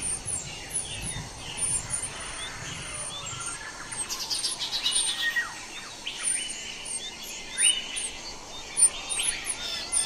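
Northern cardinal nestlings begging as they are fed, among sharp bird chip notes: many short high chirps and quick downward-sliding calls, with a fast stuttering run of chirps about four seconds in.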